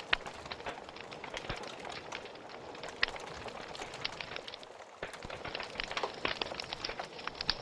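Wood fire crackling in a fireplace: a steady hiss with many sharp pops, one loud pop about three seconds in, a brief lull just before five seconds, then denser crackling.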